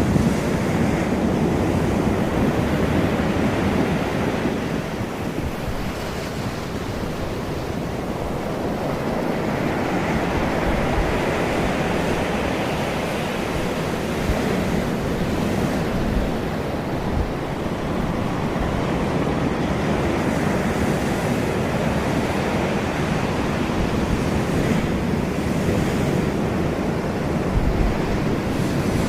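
Sea surf washing onto a beach, swelling and fading over several seconds, with wind buffeting the microphone.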